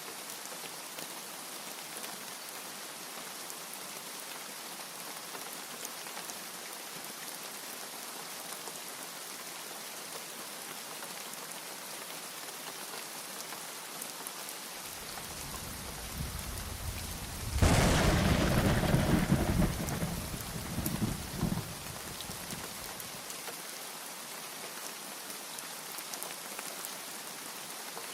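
Steady heavy rain hissing, with a thunderclap about halfway through: a low rumble builds, breaks into a loud crack, then rolls away over a few seconds.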